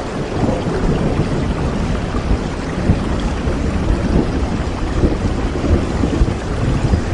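Steady rainfall, a dense even hiss of drops over a continuous low rumble.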